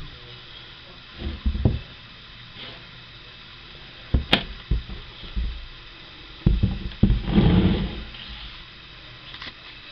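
Handling noise: a few low bumps and knocks as an object is moved, with one sharp click about four seconds in and a rustling scrape near the middle.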